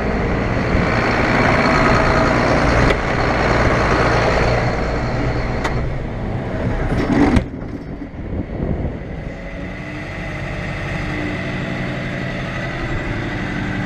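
Tractor engine running, fairly loud for the first half; after a sharp click about seven seconds in it goes on more quietly at a steady idle.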